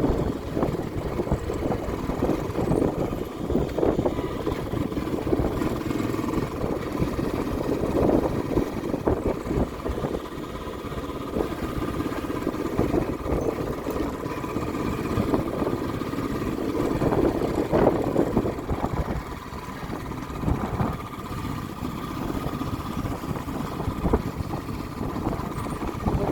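A vehicle's engine running as it drives along, with a continuous low rumble that swells and eases.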